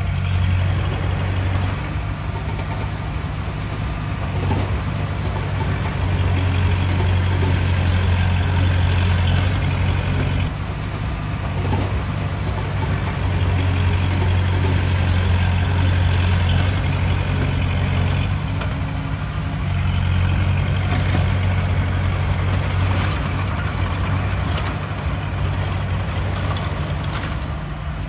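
Heavy earthmoving machinery's diesel engine running, its deep drone swelling three times as it works under load, with a few short knocks over it.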